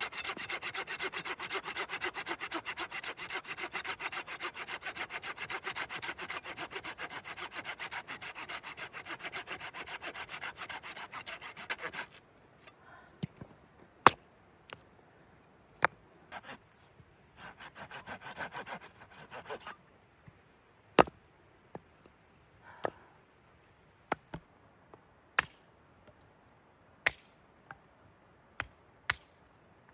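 Hand saw cutting wood in rapid, even rasping strokes for about twelve seconds, then a shorter bout of sawing. Sharp single clicks and knocks come at intervals through the second half.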